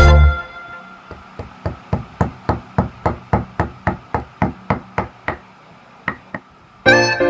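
A steady run of sharp knocks at about three a second, a hand tool striking during woodworking, with two last knocks after a short pause. Background music stops just after the start and comes back near the end.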